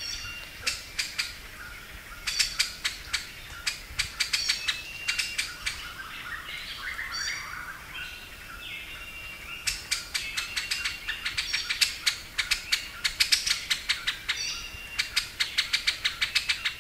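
Forest birds chirping and calling: quick runs of sharp, short chirps, with short whistled notes in between.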